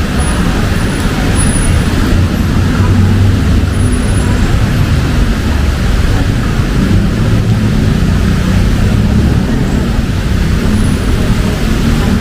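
Busy road traffic in the rain: a steady low rumble of car engines under an even hiss of rain and wet tyres.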